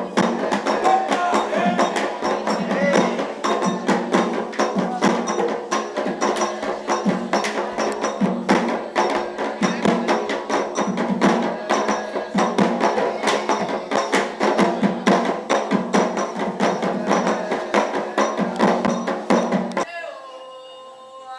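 Fast Afro-Brazilian ritual percussion, hand drums driven by a struck metal bell, under group singing. It stops abruptly near the end, leaving a single held, sliding voice.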